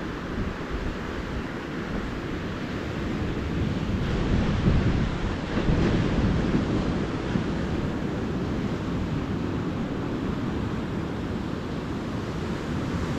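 Ocean surf washing onto a beach, a steady rushing wash with wind on the microphone. The surf swells louder about four seconds in and eases off again a few seconds later.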